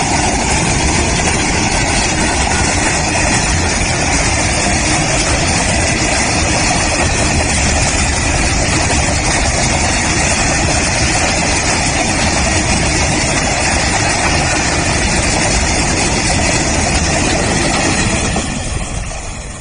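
An Indian Railways WAG-12 electric freight locomotive and its train running, a steady loud rush of rolling noise that begins to fade in the last second or so.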